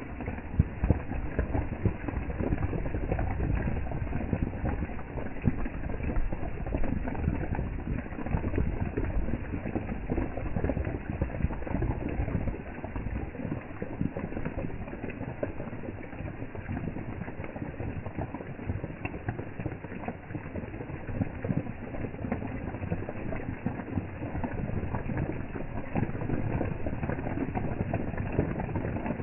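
Heavy rain falling steadily in a dense patter of drops, with a low rumble under it that eases about halfway through.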